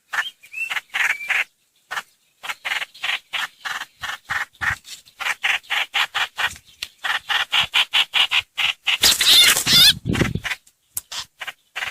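Streak-eared bulbul (trao trảo, hoành hoạch) calls played as a lure recording: rapid, repeated harsh chattering notes, several a second. About nine seconds in comes a louder, denser stretch of a second or so.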